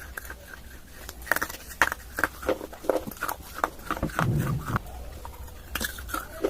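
Dry clay being bitten and crunched close to the microphone: a quick run of sharp, crisp crunches with a duller chewing sound about four seconds in, and a few more crunches near the end.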